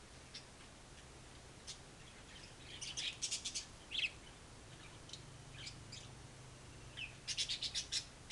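Malay hanging parrot giving short, high, sharp chirps: single calls, then two quick runs of about five or six, about three seconds in and again near the end.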